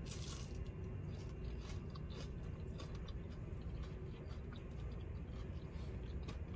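Mouth chewing a crispy truffle hash brown, with small irregular crunches and clicks.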